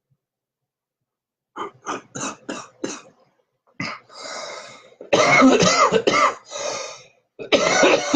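A man coughing after a hit of marijuana smoke: a quick run of short coughs, a breathy exhale, then two loud, harder coughing fits in the second half.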